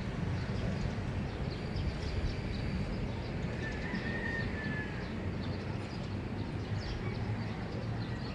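Early-morning outdoor ambience: birds chirping faintly over a steady low rumble, with one longer, slightly falling call about four seconds in.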